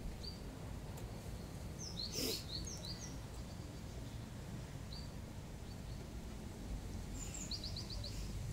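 Small birds chirping in short, high calls scattered through, with a quick run of about five chirps near the end, over a steady low background rumble. A short, sharp noise about two seconds in is the loudest moment.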